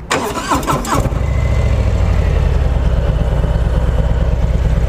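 Harley-Davidson Milwaukee-Eight 114 V-twin starting up in the first second, then settling into a steady, loud idle with a fast low throb that sounds beefy.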